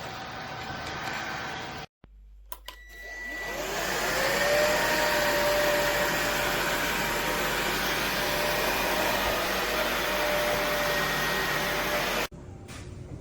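Bissell PowerClean FurGuard cordless stick vacuum switched on with a couple of clicks, its motor spinning up with a rising whine over about two seconds, then running steadily with a constant whine over rushing air. It stops abruptly about a second before the end.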